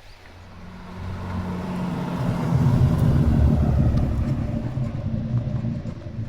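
A car's engine rumbling as it drives past, growing louder to a peak midway and then fading away.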